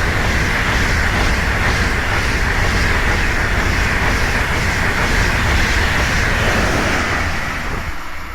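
Two coupled ICE 2 high-speed trains passing at about 200 km/h: a loud, steady rush of wheels on rail and air, with a quick regular beat about three times a second, easing off near the end.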